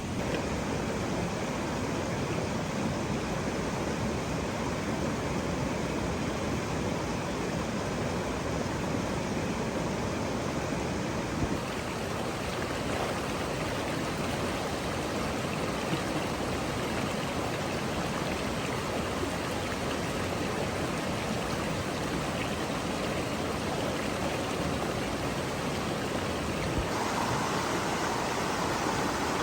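Steady rushing of running water, like a stream. Its tone shifts abruptly about twelve seconds in and again near the end.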